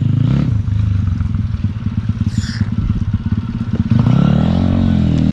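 Spark SP250D-1 pit bike's single-cylinder engine running under load off-road, with clattering from the bike. It revs up in the last second or so, then cuts off suddenly.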